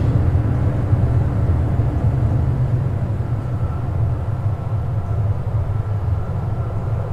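Sound installation putting out a low, steady droning rumble, with faint steady tones above it.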